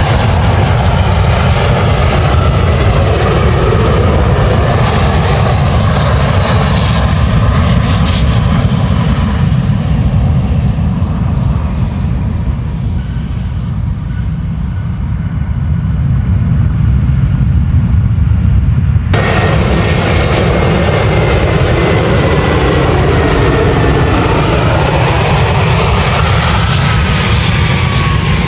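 Airliner engines running loud, a heavy low rumble with faint whines that fall slowly in pitch as the aircraft moves. The sound changes abruptly about two-thirds through, then carries on much the same.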